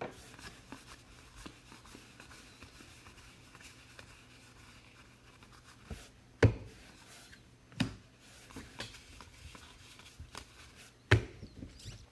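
Hands handling and sliding trading cards and pack wrappers on a table, with light rustling and scraping. Three sharp knocks stand out, one about halfway through, another a second or so later and a third near the end, along with smaller ticks.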